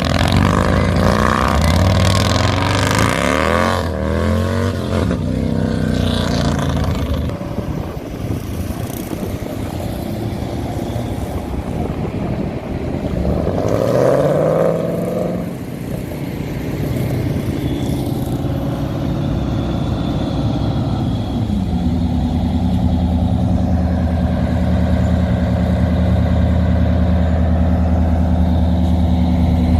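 Hot rod and classic car engines driving past one after another. About halfway through, one revs up with a rising pitch. In the last third, a car sits idling steadily close by.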